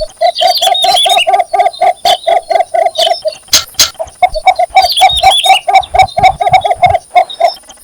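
Cinnamon bittern giving its mating call: a long, even series of short clucking notes, about four or five a second, broken off briefly a little over three seconds in and then taken up again.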